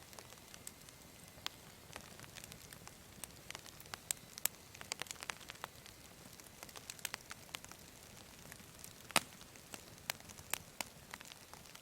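Wood campfire crackling: irregular sharp pops and snaps over a faint hiss, the loudest pop about nine seconds in.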